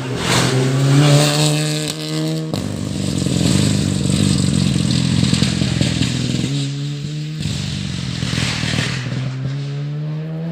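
Rally car engine accelerating hard, its note climbing several times with sharp breaks in between, as at gear changes.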